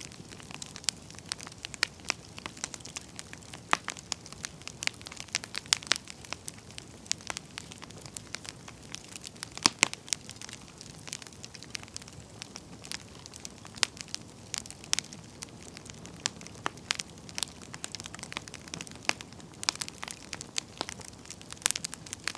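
Wood campfire crackling: irregular sharp pops and snaps from the burning firewood over a faint steady hiss, with a few louder pops now and then.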